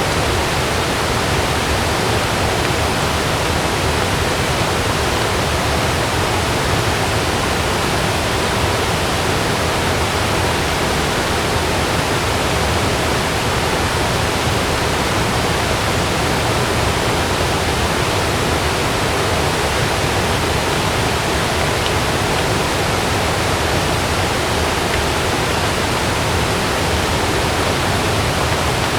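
Heavy rain falling steadily on a camping tent, an even hiss with no thunderclap or gust standing out.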